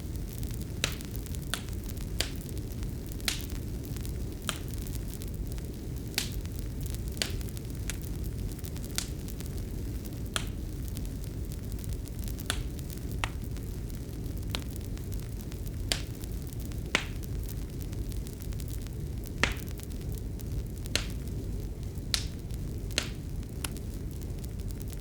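Fireplace fire burning, a steady low rush of flame with sharp, irregular crackles and pops about once a second.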